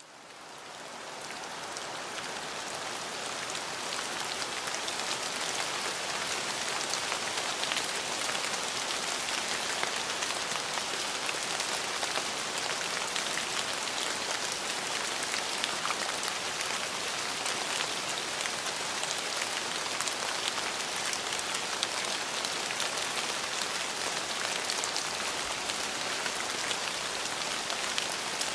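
Steady rain falling on a surface, a dense hiss of many small drop impacts. It swells up in the first couple of seconds, then stays even.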